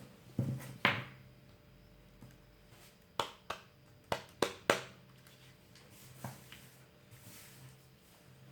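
Sharp small clicks and taps of hand tools and plastic phone parts as a Samsung Galaxy Note 2 is taken apart: three in the first second, five more between about three and five seconds in, and one near six seconds, over a faint steady hum.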